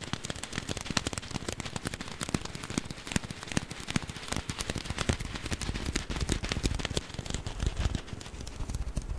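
A crinkly package being squeezed and handled close to the microphone: a dense, continuous run of sharp crinkling crackles.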